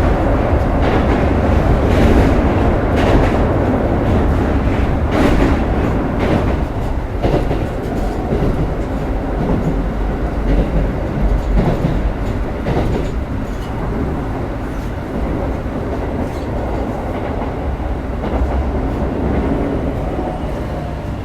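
Keikyu 1000-series electric train running at speed, heard from inside the motor car: steady rail rumble with clicks over rail joints. A faint tone from the Siemens VVVF inverter sets in near the end.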